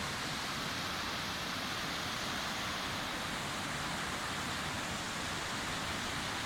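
Sea surf washing on a shore, heard as a steady, even rush of water noise with no distinct single breakers.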